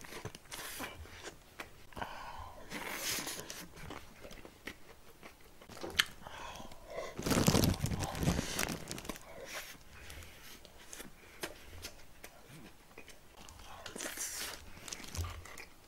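Close-miked chewing and mouth sounds of a person eating grilled yellow croaker and rice, with scattered small clicks throughout and a louder, longer stretch of eating noise about halfway through.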